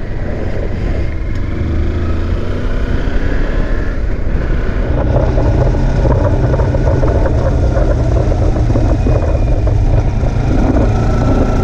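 Kawasaki Versys X300's parallel-twin engine running while the bike is ridden, under a steady low wind rumble. The engine grows a little louder and fuller about five seconds in.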